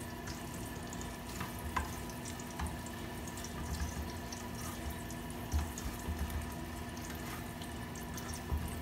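Garlic and red onion sautéing in a frying pan, a steady sizzle as a spatula stirs them, with a few light clicks and knocks of the spatula against the pan over a steady hum.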